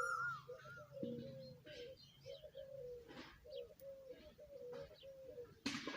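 Birds calling: a steady run of short, low cooing notes, two or three a second, with scattered higher chirps and a short whistled phrase at the start. A loud noisy burst comes near the end.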